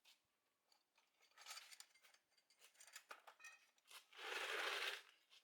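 Light scrapes and small clicks of objects being handled, then a louder, steady scrape lasting about a second, about four seconds in.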